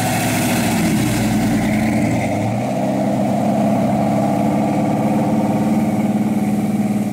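Modified 455 cubic-inch V8 of a 1972 Oldsmobile Cutlass Supreme running at low revs as the car rolls slowly by. The revs rise a little about a second in, then hold steady.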